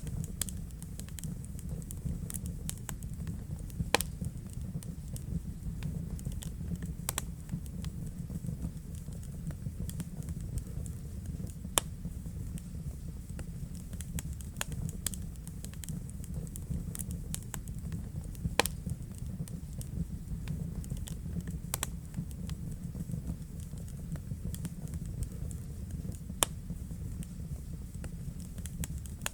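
Wood fire burning in a fireplace: a steady low rumble of flames with constant small crackles and a few louder, sharp pops scattered through.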